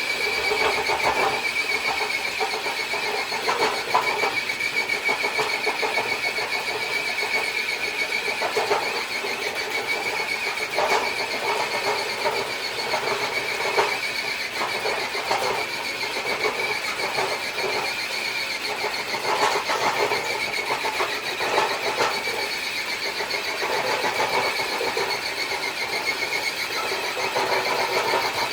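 Small RC crawler truck's electric motor and gears whining steadily under load as it drags a weighted dead sled over concrete. Short, irregular scraping and clattering sounds run throughout.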